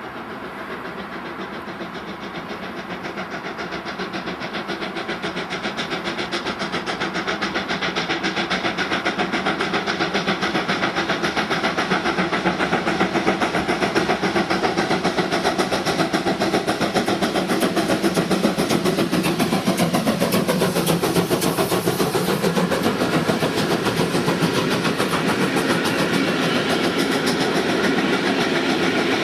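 A train approaching, growing louder over the first ten seconds, then running past with a fast, steady rhythmic beat and a sliding pitch around the middle as it goes by.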